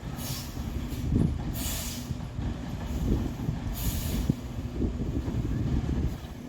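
Freightliner 108SD garbage truck with a RotoPac side-loader body running, its diesel engine rumbling, with four short hisses of air and a few clunks from the truck's mechanism.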